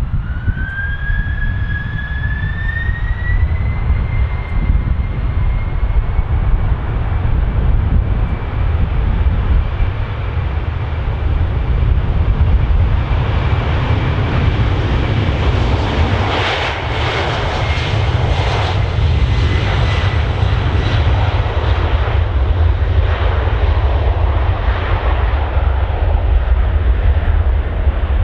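Boeing 747-400F's four jet engines at takeoff power: a whine rising in pitch over the first few seconds and then holding, over a heavy low rumble. From about halfway the sound swells into a loud roar with a rapid crackle.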